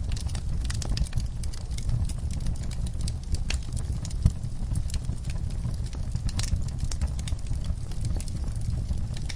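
Wood-burning fireplace crackling, with scattered sharp pops over a steady low rumble of the fire; one sharper pop a little past four seconds in.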